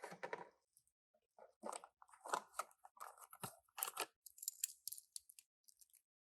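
Small toy packaging being opened and handled: irregular faint crinkles, tearing and light clicks of cardboard and plastic.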